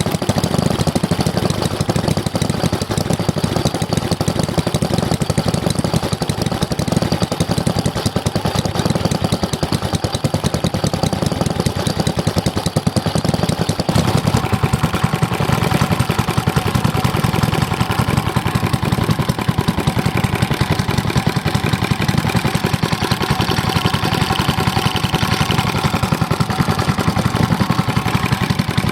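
Mitsubishi Katsura H3C small stationary engine running steadily with a fast, even beat of firing pulses. About halfway through, the sound shifts and a steadier hum comes in.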